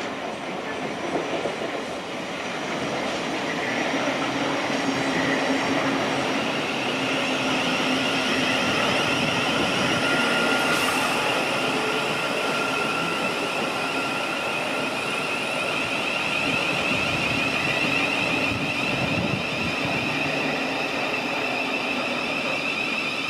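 Electric multiple-unit train running through the station. It grows louder over the first few seconds, then holds steady, carrying a high steady whine.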